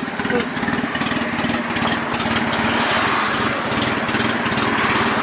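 A car engine running close by, its exhaust pulsing rapidly. The exhaust noise swells about halfway through and holds.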